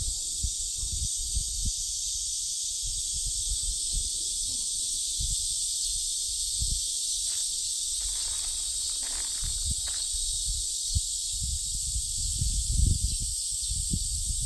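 Chorus of cicadas buzzing steadily in the trees as one dense, high hiss, with irregular low rumbles and knocks underneath that grow stronger near the end.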